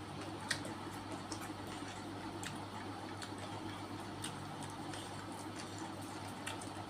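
Close-miked eating sounds: scattered sharp mouth clicks and small crunches while chewing, the loudest about half a second in, over a steady low hum.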